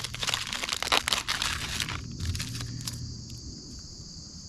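Plastic MRE packaging crinkling and rustling as the items are handled, dense for about two seconds, with a shorter rustle just before the three-second mark. A steady chorus of crickets carries on underneath.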